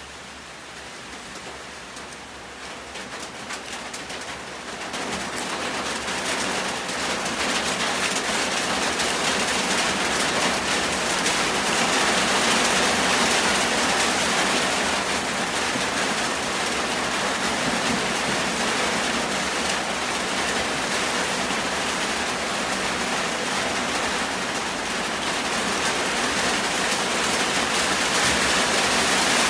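Heavy rain, swelling over the first several seconds and then falling steadily.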